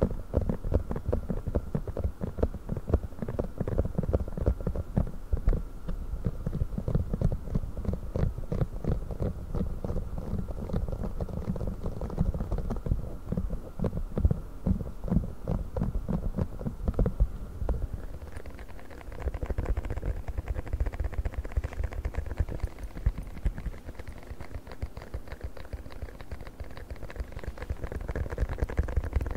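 Fast, dense tapping on a silicone funnel, dull and deep at first; about two-thirds of the way through the taps turn lighter and brighter.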